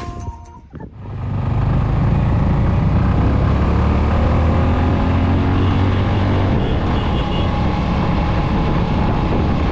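A motorcycle being ridden on the road: its engine running steadily under a loud rush of road noise. Background music cuts off just before it begins, about a second in.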